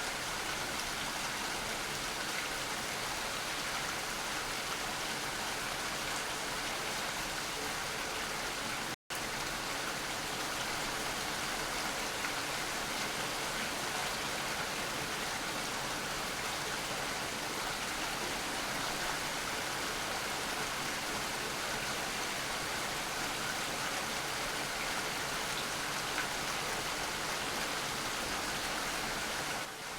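Steady rain falling, an even hiss with no single drops standing out. The sound cuts out completely for an instant about nine seconds in.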